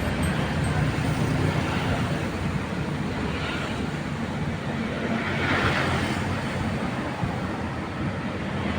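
Tugboat diesel engine running with a steady low drone, mixed with wind noise on the microphone; a hiss swells and fades about five to six seconds in.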